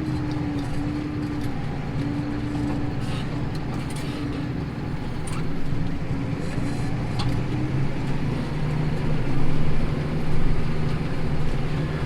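Tractor diesel engine running steadily under load while pulling a plough through stubble, its hum holding an even pitch and swelling a little in loudness near the end.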